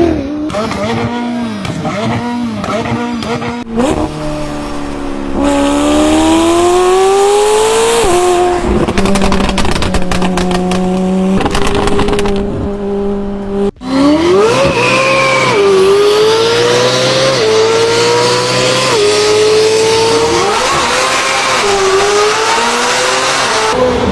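McLaren 720S twin-turbo V8 revving and accelerating hard, its pitch climbing and dropping sharply at each upshift several times over. The sound breaks off abruptly between takes about 4 s and about 14 s in.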